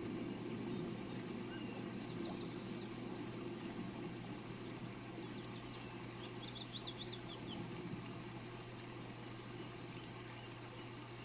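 Steady hiss of rain with birds chirping over it: a few quick chirps about two seconds in and a fast run of chirps a little past the middle. A low rumble fades away over the first few seconds.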